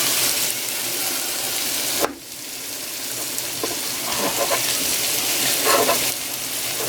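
Chopped vegetables and chicken sizzling in oil in a frying pan while being stirred and broken up with a utensil, with small scrapes and knocks. The hiss is loud at first and drops suddenly about two seconds in.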